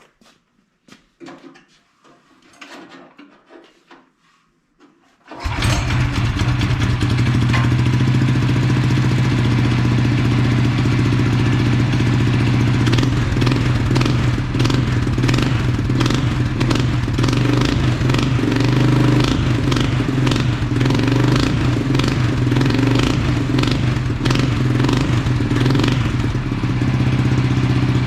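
A few faint knocks, then a single-cylinder cyclekart engine starts about five seconds in and runs steadily. It exhausts through a homemade glass-pack muffler into a collector feeding four outlet pipes of different lengths.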